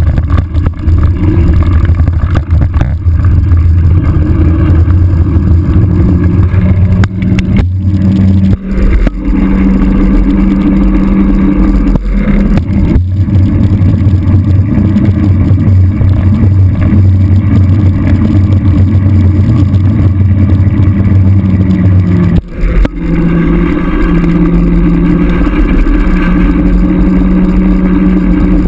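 Motorcycle engine running under load on a trail, its pitch stepping up and down with throttle and gear changes and dropping briefly a few times, notably about eight and twenty-two seconds in.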